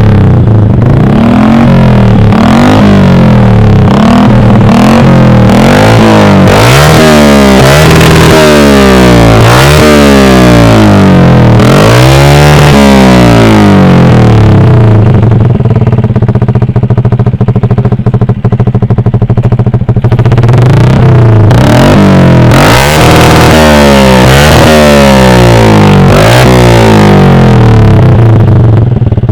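A Yamaha MX 135 motorcycle's engine runs through an aftermarket Akrapovic GP-style racing exhaust. It starts on a steady idle, then about six seconds in it is blipped repeatedly, each rev rising and falling back, settles to idle, and is revved in quick blips again near the end.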